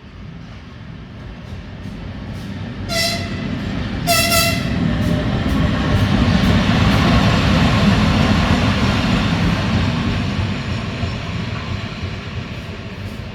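2M62U diesel locomotive's typhon horn gives two short blasts about a second apart, around three seconds in. The locomotive's diesel engine rumble then swells as it passes and fades away.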